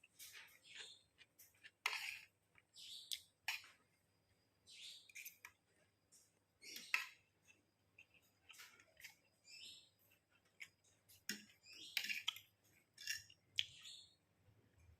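Close-miked chewing of fried rice with stink beans (petai), heard as irregular short, wet clicks, several a second.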